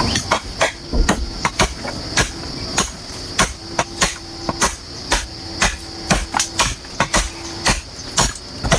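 A hand tool striking bamboo again and again, sharp blows at an uneven pace of about two to three a second, as bamboo is worked for a shelter.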